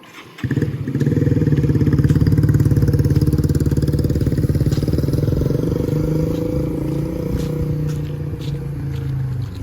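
Motorbike engine close by, starting abruptly about half a second in and then running loud and steady at an even speed, easing off slightly near the end.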